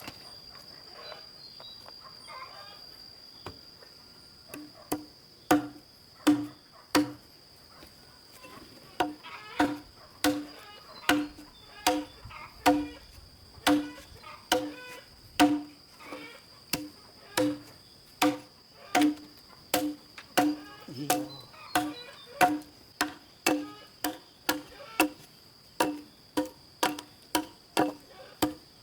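Repeated sharp knocks, roughly one to two a second and slightly uneven, each with a short ringing tone; they start about four seconds in. A steady high insect drone, as of crickets, runs underneath.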